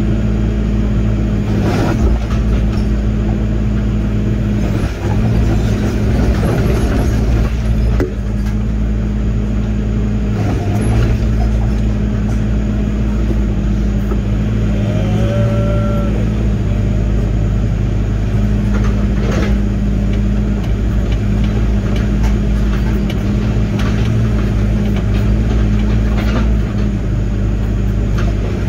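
Diesel engine of a Link-Belt 145 excavator running steadily while digging, with a few short knocks from the machine at work.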